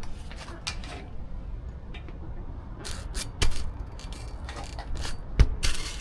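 Motorcycle cover being pulled over a parked bike and fastened: fabric rustling with scattered clicks, and one sharp thump about five and a half seconds in.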